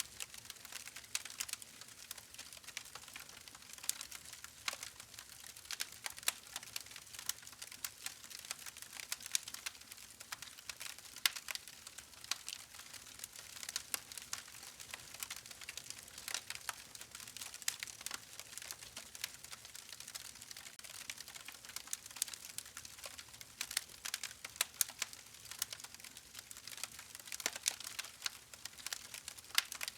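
Wood fire crackling: a steady scatter of small, sharp pops and snaps over a faint hiss.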